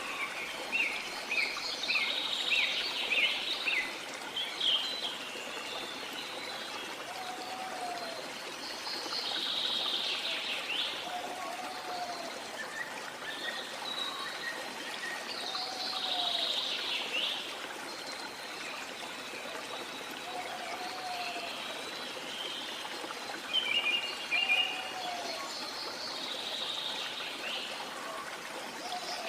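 Steady rush of water with small birds chirping and twittering over it, and a short lower call repeating every three to four seconds.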